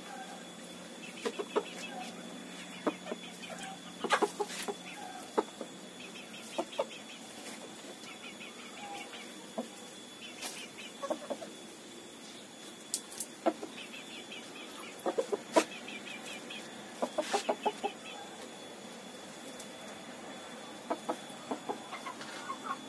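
Chickens clucking in short, scattered calls, some in quick runs of several pulses.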